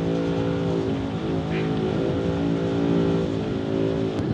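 Motorboat engine running at a steady speed: a constant hum whose pitch wavers slightly and drops out briefly a few times.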